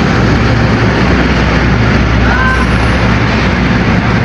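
Passenger train carriages running past on the rails: a loud, steady rumble of wheels on track with a steady low hum underneath. A brief high squeak sounds a little past halfway.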